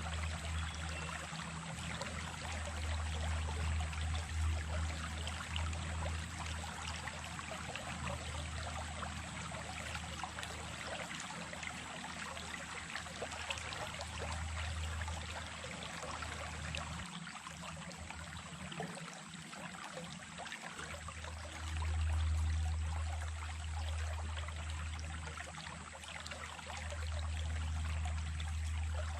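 Running water of a small stream, a steady trickling, splashing flow, under a low rumble that drops away for a few seconds in the middle.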